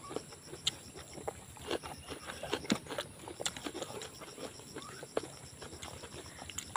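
People chewing food close to the microphone: irregular wet mouth clicks and lip smacks while eating with their hands.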